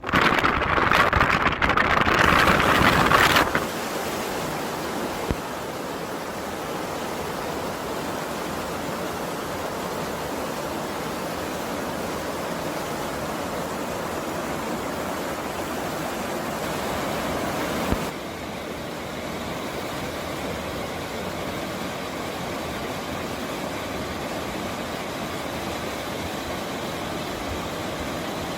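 Mountain wind gusting hard against the microphone for the first three seconds or so, then a steady, even rushing noise. The rushing sound changes abruptly about eighteen seconds in, where one field recording is cut to another.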